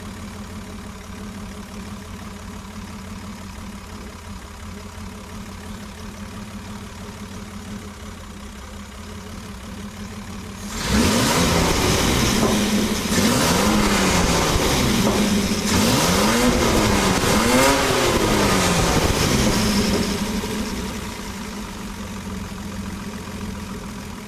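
Unimog 404 inline-six petrol engine on two Solex carburettors, running loud through a blown-apart silencer. It idles steadily, is revved up and let fall back several times about halfway through, then settles back to idle.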